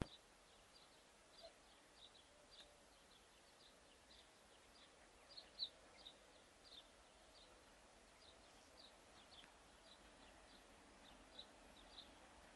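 Near silence with faint bird chirps: short, high notes scattered irregularly, one louder chirp about five and a half seconds in.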